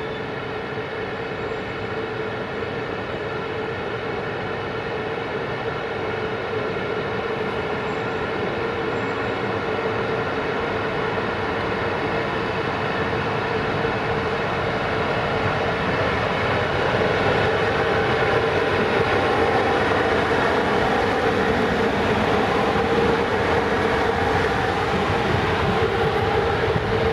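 Electric locomotive hauling a passenger train, approaching and running past with a steady hum that grows louder as it nears, then the rumble of the coaches rolling by with a few wheel clicks near the end.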